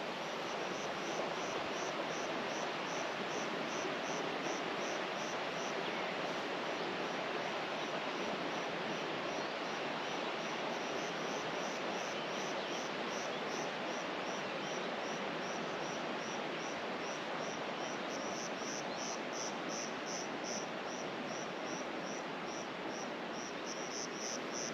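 A cricket chirping at a steady rate of about two to three high-pitched chirps a second, over a steady outdoor hiss.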